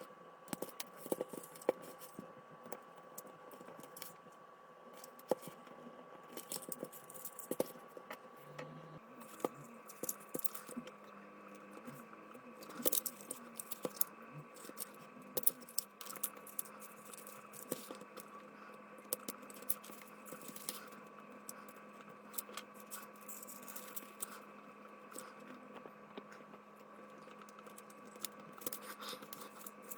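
Rapid, scattered small clicks and scratches of tweezers working crimped wire terminals out of a plastic fusebox, sped up, over a faint steady hum.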